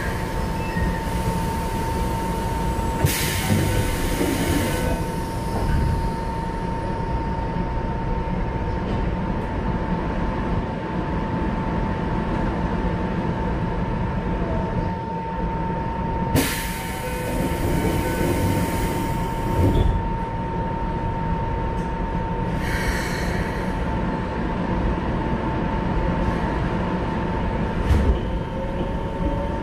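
Running noise inside a Keikyu 1500-series electric train car with Mitsubishi GTO-VVVF control: a steady rumble of wheels on rails with a steady high whine. There are several short bursts of hiss, and a rising tone starts near the end.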